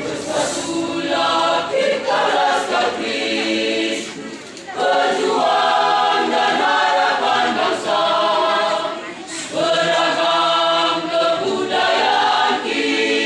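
Church youth choir singing in harmony, sustained phrases with short pauses between them.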